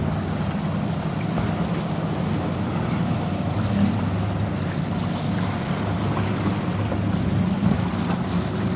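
Motorboat engines running steadily, mixed with the wash of waves and wind noise on the microphone.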